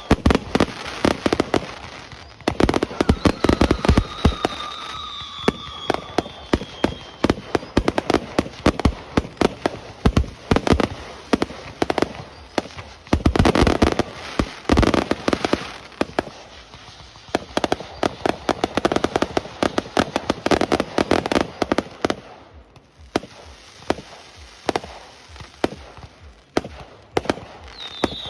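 Aerial fireworks display: a continuous run of sharp bangs and crackling reports. They thicken into dense volleys a few seconds in, around the middle and again after two-thirds of the way, and thin out briefly a little before the end.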